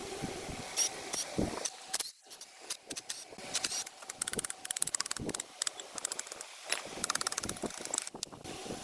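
A ratcheting mechanism clicking rapidly in several short bursts, with scattered single metal knocks in between.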